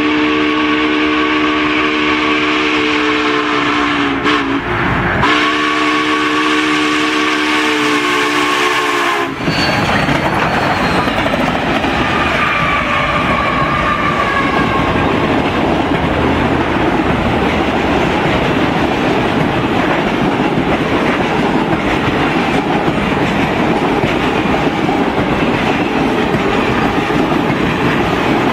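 Union Pacific 844 steam locomotive's whistle sounding two long blasts for the grade crossing, the second cutting off about nine seconds in. Then the train rolls past with a steady rush and rumble of wheels on rail.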